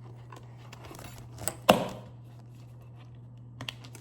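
Small clicks and handling noise from fitting the mounting clips onto a Halo retrofit LED recessed light, with one sharp snap a little over a second and a half in and a few small clicks near the end. A steady low hum runs underneath.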